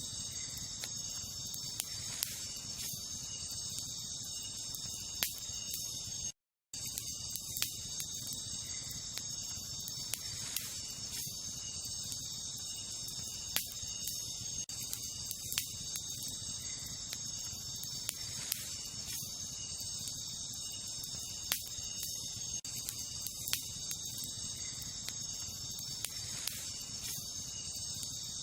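Wood campfire crackling, with occasional sharp pops every couple of seconds, over a steady high chorus of night insects such as crickets. The sound cuts out for a split second about six seconds in.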